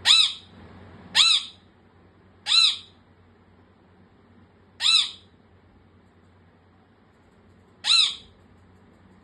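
A pet bird giving five short, loud squawks at uneven intervals, each call arching up and then down in pitch.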